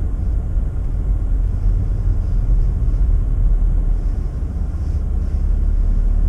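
Steady low rumble of a car's engine and tyres heard from inside the cabin as it rolls slowly.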